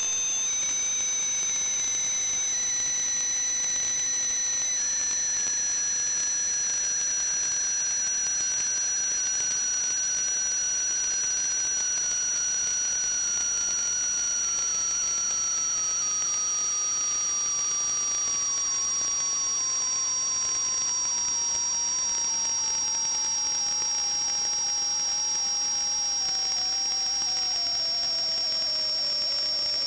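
High whistling tones over a steady hiss, one of them falling slowly and steadily in pitch.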